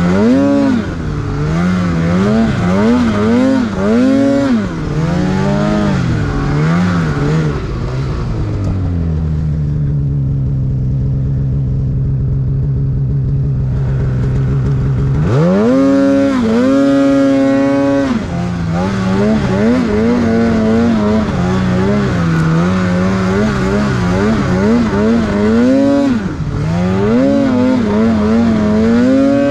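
Snowmobile engine revving up and down with the throttle while riding in powder snow, settling to a steady lower run for several seconds midway before revving hard again.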